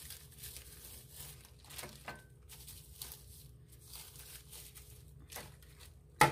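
A hand in a thin plastic food glove rubbing sesame oil and salt into a sheet of dried nori seaweed, giving a crinkly rustling in quick repeated strokes.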